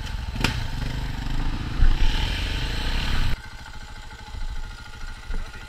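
KTM 690 dual-sport motorcycles' single-cylinder engines running at low speed, with a sharp knock about half a second in. The engines get louder around two to three seconds in, then the sound drops abruptly to a quieter idle.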